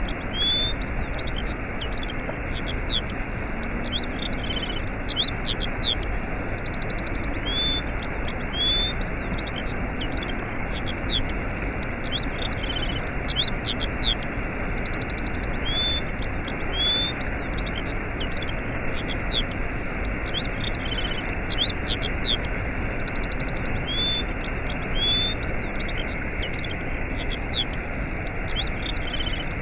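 Steady rush of a waterfall, with small birds chirping over it in quick, repeated chirps and short trills.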